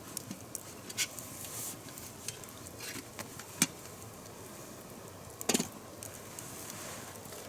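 Campfire crackling with scattered sharp pops, and a short metallic clatter about five and a half seconds in as the just-boiled camping kettle is handled.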